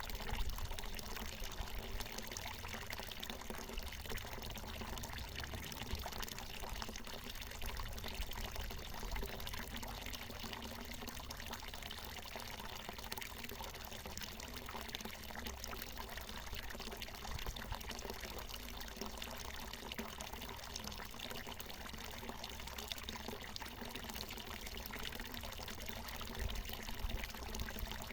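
Water from a natural mountain spring pouring and splashing steadily, a continuous trickle with no break.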